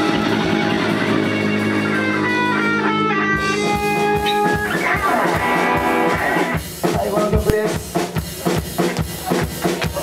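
Rock band playing live on electric guitar and drum kit. A run of stepping lead-guitar notes rings over held chords, then about two-thirds of the way through the drums start a steady, driving beat.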